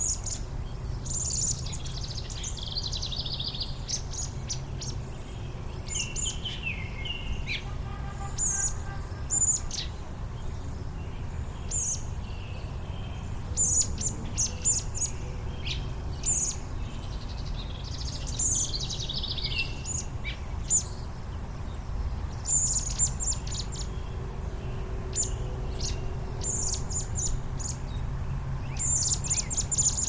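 Songbirds chirping and singing in short overlapping calls and trills, over a steady low rumble.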